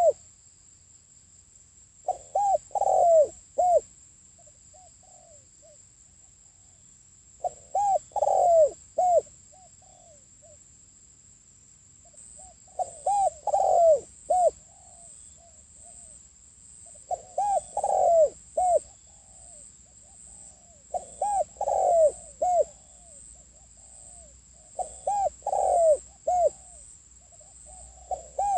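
Spotted dove cooing, a lure call for attracting wild doves: phrases of several coos repeated every four to five seconds, with a faint steady high whine underneath.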